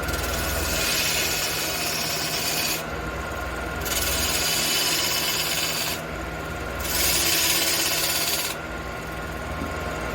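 Wood lathe running with a steady hum while a tool or abrasive is pressed against the spinning red cedar in three passes. Each pass is a hissing rasp of about two seconds, with short breaks between them.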